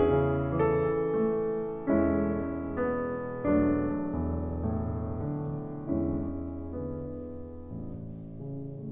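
Slow, gentle piano music. Single notes and chords are struck every second or so and left to ring out, and the music grows gradually softer toward the end.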